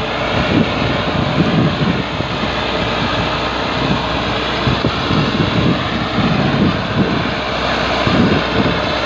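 Diesel tractor engine running steadily under load, pulling a loaded sugarcane trolley.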